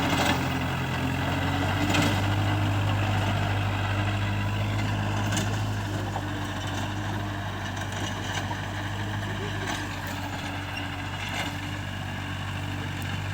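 Kubota tractor's diesel engine running steadily at a low, even pitch, with a few brief faint clicks over it.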